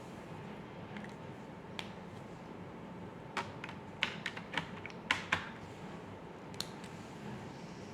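A run of sharp clicks and taps, most of them bunched together in a quick cluster of about eight in the middle, with single clicks before and after, over a faint steady hiss.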